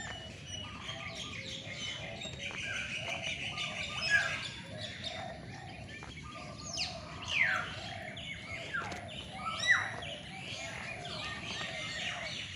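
Many birds chirping and calling at once in a dense chorus, with a few louder falling whistled calls standing out about four, seven and ten seconds in.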